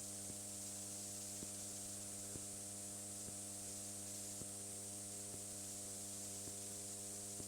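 Steady electrical hum with a layer of hiss, the background of an aircraft intercom audio feed between transmissions, with faint ticks now and then.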